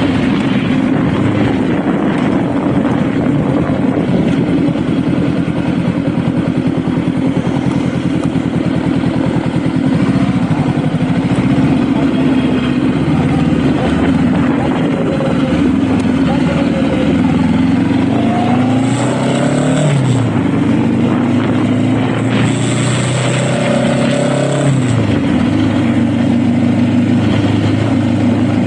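Honda Rebel motorcycle engine running steadily while riding. Its pitch rises and falls a few times between about 18 and 25 seconds in.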